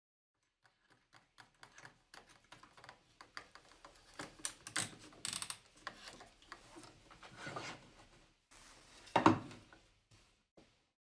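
Irregular mechanical clicking and rattling, as of workshop tools being handled, with one loud knock about nine seconds in.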